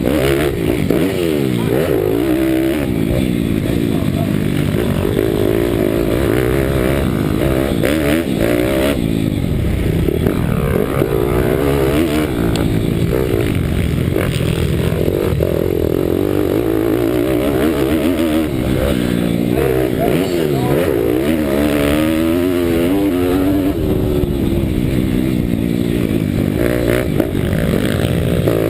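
Pitbike's single-cylinder four-stroke Daytona Anima 190 cc engine heard from on the bike, revving hard and repeatedly rising and falling in pitch as it is throttled and shifted around a track.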